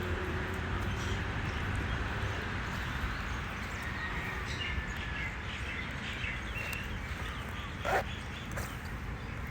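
Outdoor ambience: birds calling in short chirps over a steady low wind rumble on the microphone, with one brief, louder call about eight seconds in.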